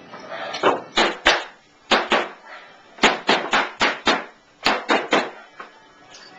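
A run of about a dozen sharp knocks or taps in quick, uneven groups, some a third of a second apart, typical of hand tool strikes during window glass work.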